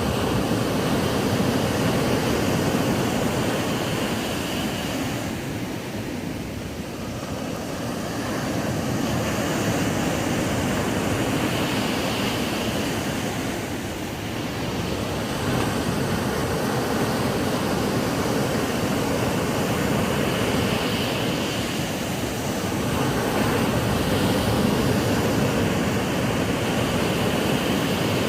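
Ocean surf breaking and washing up a sandy beach: a steady rush of water noise that swells and eases, dipping about every eight seconds.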